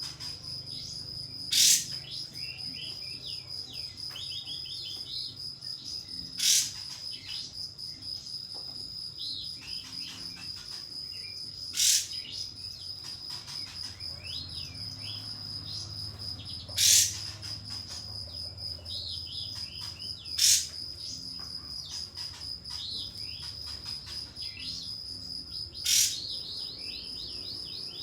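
Kapas tembak songbird calling: six loud, sharp, explosive 'shot' calls roughly every five seconds, with softer rapid twittering phrases between them. A steady high insect-like tone runs underneath throughout.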